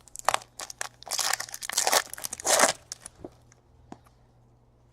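Foil trading-card pack wrapper crinkling and tearing open in a quick run of crackly rips, ending about three seconds in with a few light clicks after.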